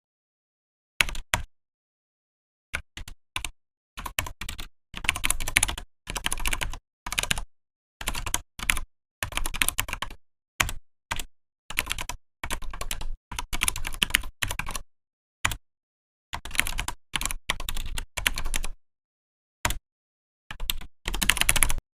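Typing on a Vortex PKX-1040 keyboard: quick runs of key clicks in short bursts, broken by brief pauses, the densest run near the end.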